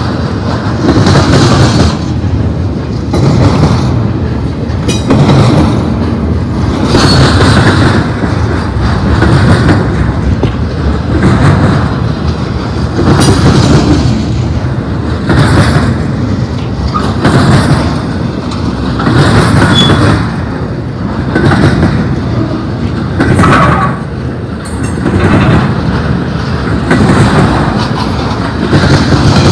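Intermodal freight cars rolling past close by, their steel wheels rumbling and clattering on the rail, swelling loudly every couple of seconds as each wheel set goes by.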